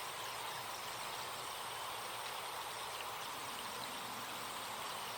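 Forest stream flowing steadily, a soft even rush of water, with faint high ticks that may be insects or birds in the mix.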